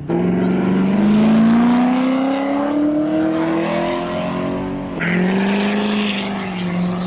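A car engine revving hard, its pitch climbing steadily for about five seconds, then an abrupt change to an engine held at steady high revs with a hiss over it.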